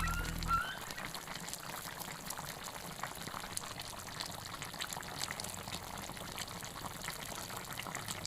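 Food cooking in a pot: a faint, steady crackle of many small pops and bubbles.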